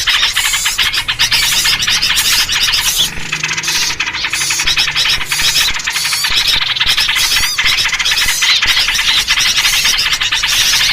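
Loud, dense chattering and scolding calls of many small birds, a 'noisy birds' lure recording built on the calls of the yellow-vented bulbul (trucukan). The calls come rapidly and without a break.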